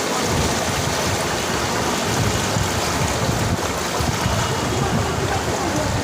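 Steady rushing water noise of fast-flowing floodwater.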